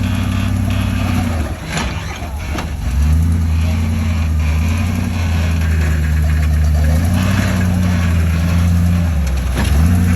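Off-road truck engine running under varying throttle, its pitch stepping up and down several times, with a couple of knocks about two seconds in.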